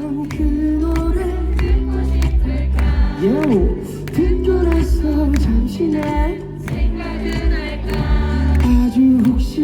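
Live pop ballad over loudspeakers: a voice singing long, gliding notes over a backing track with a heavy bass line.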